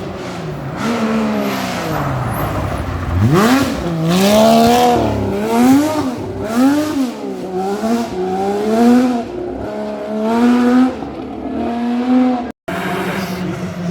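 Rally car engine under hard acceleration: the revs climb steeply about three seconds in, then rise and fall again and again as the driver works the throttle and gears. The sound drops out for a moment near the end.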